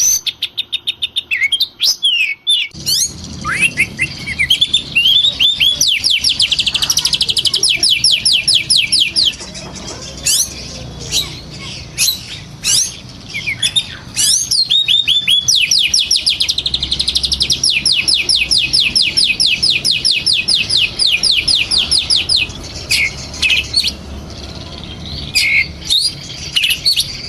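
Oriental magpie-robin (kacer) singing energetically: long runs of rapid repeated high notes, about eight a second, broken by short whistles that sweep up and down. A steady low rumble runs beneath from about three seconds in.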